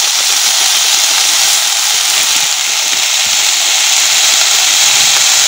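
Mixed vegetables sizzling steadily in hot oil in a kadhai: an even, unbroken frying hiss.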